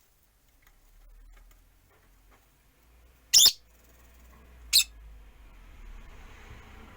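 Peach-faced lovebirds giving two short, sharp, high-pitched calls about a second and a half apart, the first a little longer, over a faint low rumble.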